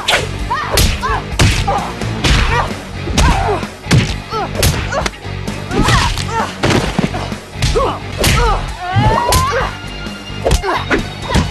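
Animated fight sound effects: a quick run of punch and kick impacts and swishes, mixed with short grunts of effort, with a longer rising cry about eight seconds in, over a low music bed.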